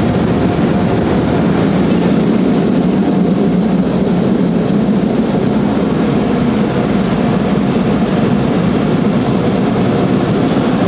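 Automated car wash machinery running over the car, heard from inside the cabin: a loud, steady rushing noise that does not let up.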